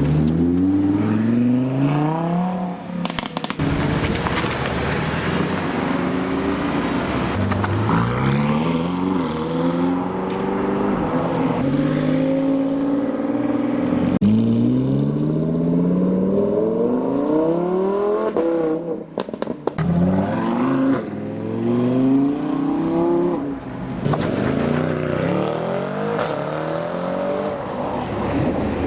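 A string of supercars accelerating away one after another, an Audi R8 among the first. Their engines rev up in repeated rising sweeps, dropping back at each gear change and climbing again as each car pulls off.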